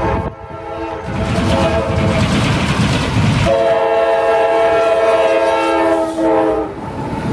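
Diesel freight locomotive horn sounding its chord. One blast ends just after the start, the train rumbles for a few seconds, then a long blast begins about halfway and cuts off near the end.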